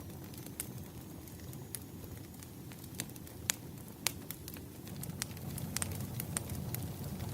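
Firewood burning and crackling: irregular sharp pops and snaps over a low steady rumble of the flames, the sharpest pop about three and a half seconds in.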